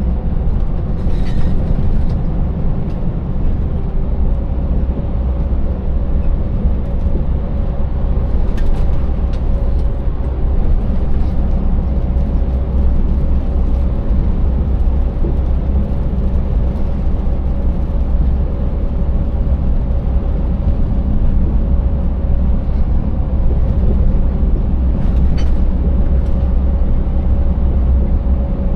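Scania 590S truck's 16-litre V8 diesel running steadily under way, with a constant low rumble of engine and road noise. A few faint clicks or rattles come through, near the start, around a third of the way in and near the end.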